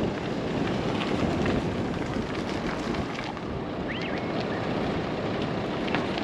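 Wind buffeting the microphone outdoors, a steady low rushing noise.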